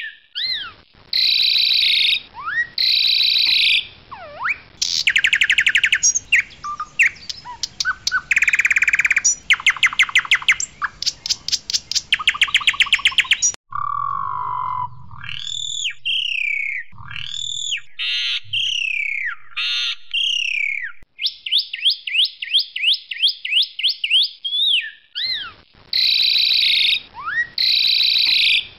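Asian pied starling singing loudly: bursts of fast rattling trills alternate with sharp rising whistles. From about the middle to near the end, a run of slurred, swooping whistles takes over, before the rattling trills return.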